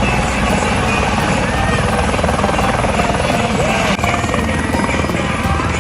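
Helicopter close by, its rotor chopping fast and steadily over the noise of its engine, with scattered voices faintly over it.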